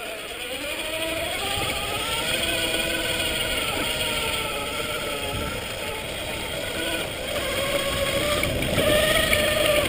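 Electric mountain bike's motor whining under load on a climb, its pitch rising, sagging and rising again with speed, over a low rumble of tyres on the dirt trail and wind.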